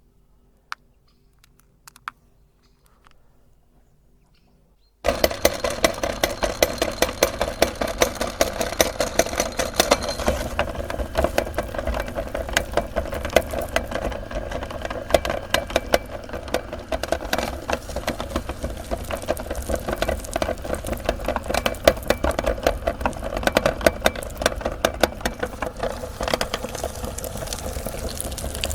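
Electric meat grinder switched on about five seconds in, its motor running steadily while candy is crushed in the auger with dense crackling and crunching. A few faint clicks come before it starts.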